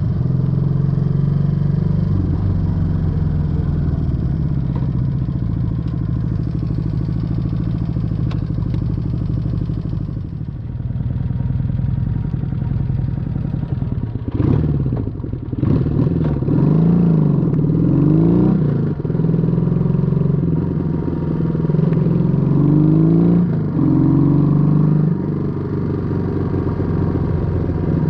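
Honda Dream 250 (1968 CD250) parallel-twin engine and exhaust on the move. It holds a steady note for about ten seconds and briefly eases off, then pulls through several gear changes with the pitch rising and dropping again and again.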